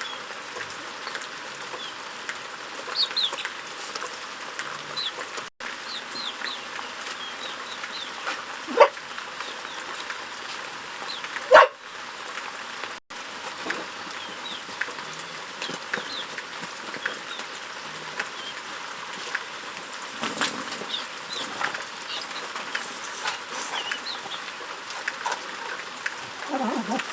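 Farm poultry calling as they feed: many short, high peeps and chirps, with two louder squawks about nine and twelve seconds in.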